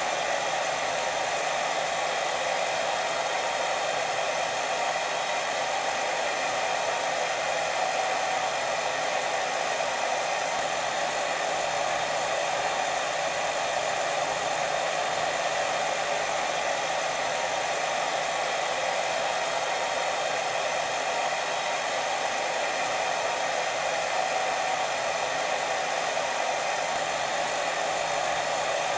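Steady white noise for sleep, an unbroken rushing hiss that is strongest in the middle range and holds the same level throughout.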